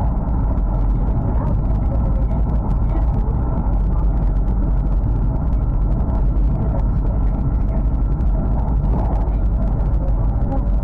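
Steady running noise of a Hokuriku Shinkansen train, heard from inside the passenger cabin: a dense, even low rumble with a faint steady hum.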